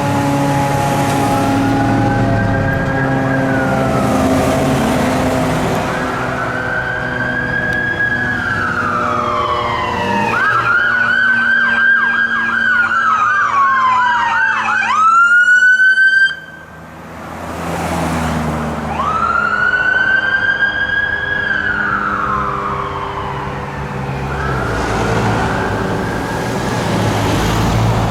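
Emergency-vehicle electronic siren on a responding unit, a wail rising and falling every few seconds. About ten seconds in it switches to a fast yelp, then gives a rising whoop and cuts off suddenly. A couple of seconds later the wail starts again, over the hum of the passing vehicle.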